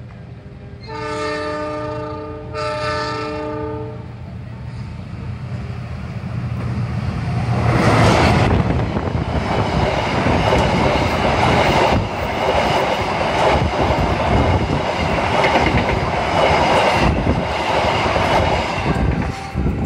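Train horn sounds two blasts, warning for the level crossing as the passenger train approaches. About eight seconds in, the train's carriages pass close by with a loud, steady rumble of wheels clattering on the rails.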